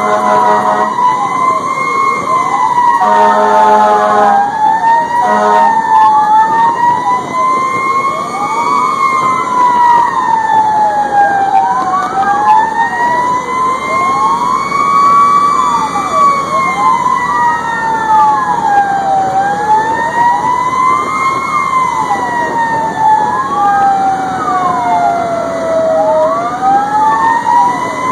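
Fire engine siren wailing slowly up and down, overlaid by a second siren sweeping quickly up and down. The horn sounds three times in the first six seconds.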